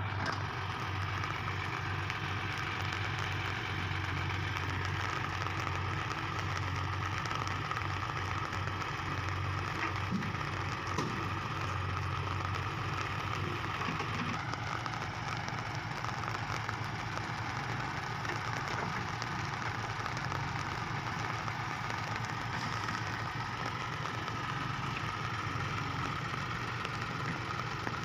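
Diesel engine running steadily at low revs, a constant low hum, with a couple of faint knocks about ten seconds in.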